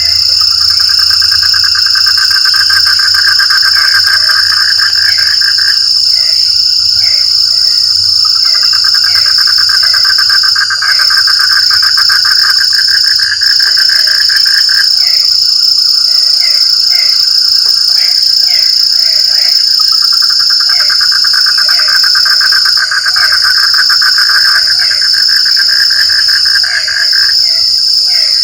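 Chorus of frogs calling: a fast pulsing trill that runs for several seconds at a time, stops and starts again, over many short repeated croaks. A steady high-pitched insect-like drone runs underneath throughout.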